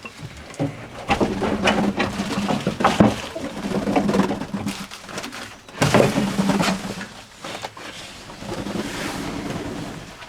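Fantail pigeons cooing in a loft, low repeated coos in stretches of a second or two, with scattered knocks and rustles of movement among them.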